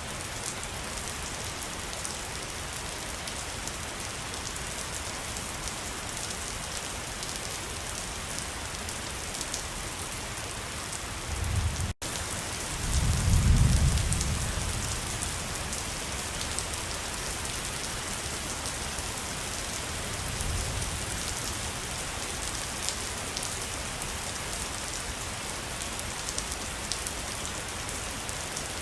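Steady hiss of falling water, waterfall or rain, with fine patter. Near the middle the sound cuts out for an instant, then a deep rumble swells for about two seconds, with a fainter rumble a few seconds later.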